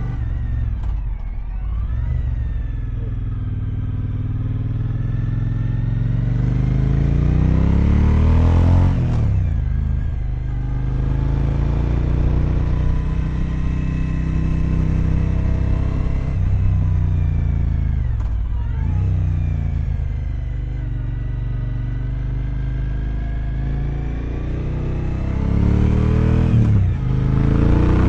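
Motorcycle engine under way, its pitch climbing for several seconds at a time as it accelerates, then dropping away sharply three times as the throttle closes or it shifts gear.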